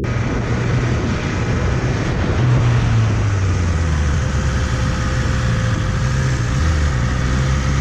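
Motorcycle engine running steadily while riding, with a rush of wind and road noise.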